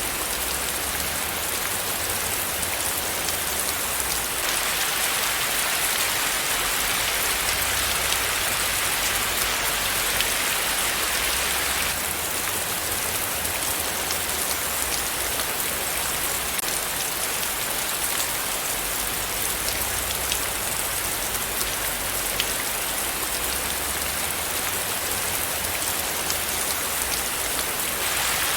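Steady rain falling, an even hiss with fine pattering of drops. It grows a little brighter and louder from about four seconds in until about twelve seconds in.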